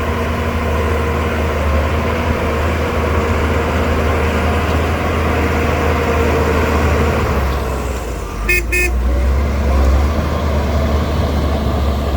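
Heavy diesel engine of a Shantui DH17C2 bulldozer running steadily under load, a deep drone. About eight and a half seconds in, a horn gives two short beeps in quick succession.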